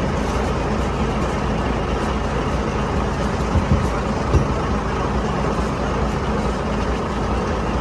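Boat engine running steadily, with a few brief knocks a little past midway.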